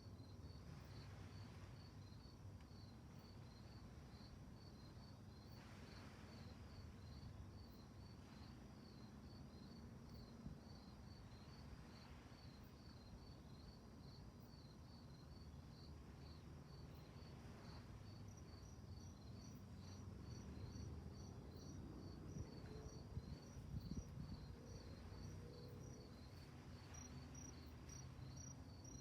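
Crickets chirping in a fast, even pulsed rhythm, with a second, higher-pitched cricket joining about two-thirds of the way through. A faint low rumble lies beneath.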